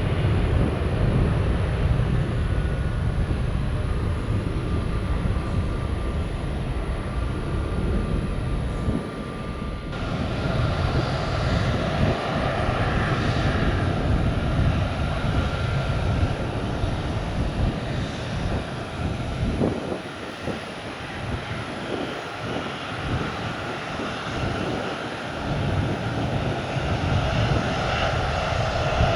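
Jet aircraft engines running, a steady rumble with a faint high whine over the first ten seconds; the sound changes abruptly about ten seconds in.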